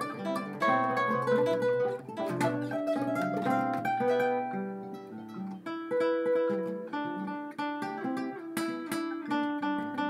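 Instrumental music on a plucked string instrument, most like acoustic guitar: a melody of picked notes with a few strummed chords.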